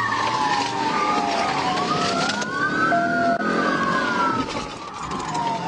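Police car siren wailing in slow rising and falling sweeps, with road and engine noise from the pursuing car underneath.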